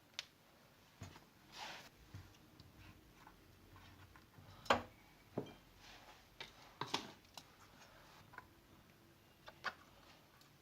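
Scattered light clicks and taps of kitchen items being handled, the sharpest a little before halfway, with a short scraping sound near two seconds.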